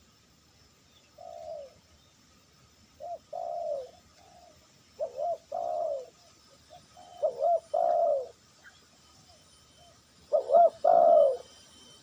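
A dove cooing in repeated phrases, each a short note followed by a longer falling coo, every two to three seconds and getting louder toward the end.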